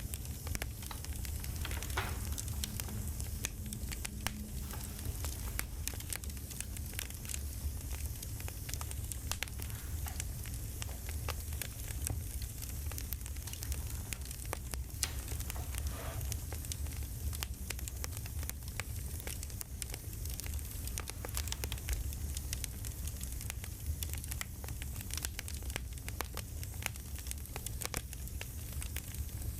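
Campfire crackling: frequent sharp pops and snaps scattered irregularly over a steady low rumble.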